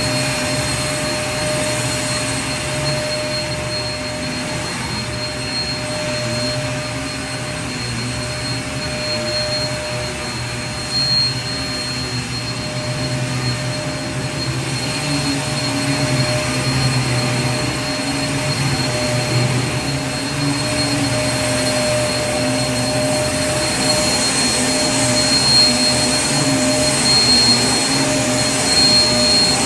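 Vacuum cleaner running steadily, a continuous rushing motor noise with a constant high whine over a slightly wavering low hum.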